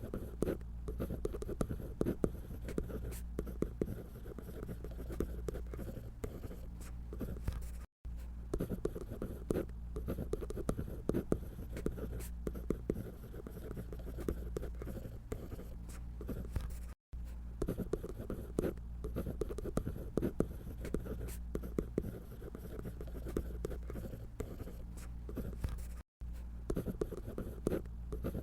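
Drawing on paper: a continuous run of short, scratchy strokes from a drawing tool as a paper-doll figure is sketched, broken off for an instant three times.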